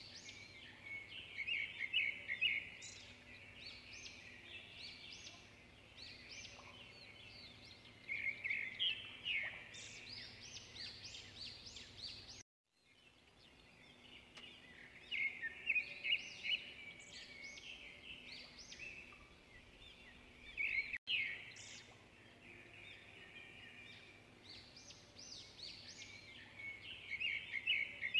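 Birds chirping: quick high twittering calls in repeated bursts every few seconds, with the sound cutting out completely for a moment about twelve seconds in.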